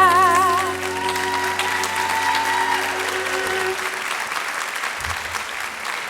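Audience applauding as the music ends. A last held note with vibrato stops within the first second, and the remaining orchestral tones die away over the next few seconds, leaving the applause.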